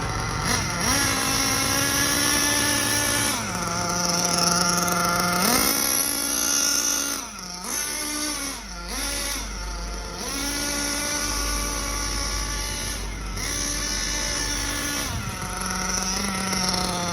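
Small nitro engine of a Hobao Hyper VS RC buggy running during break-in. It holds a steady higher pitch, drops to a lower speed a few times and comes back up, and briefly dips twice near the middle.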